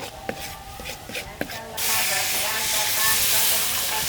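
A cooking utensil clicking and scraping in a pan, then, a little under two seconds in, a loud steady hiss sets in.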